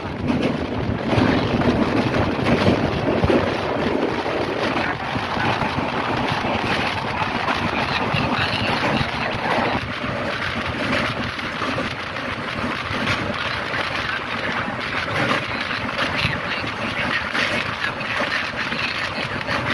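Passenger express train running over a steel truss bridge, heard from an open carriage window: a steady rumble with dense rattling clatter of the wheels and the bridge, and wind buffeting the microphone.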